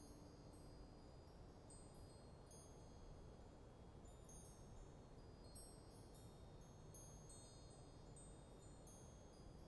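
Wind chimes ringing faintly and irregularly in a light breeze, many short high notes overlapping, over a steady low rush of wind.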